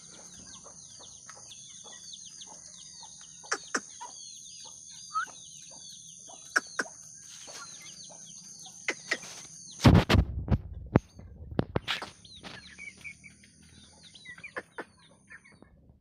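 Aseel chicks peeping: many quick repeated chirps, with scattered sharp clicks. A loud burst of knocking and handling noise comes about ten seconds in, and a steady high whine stops at the same moment.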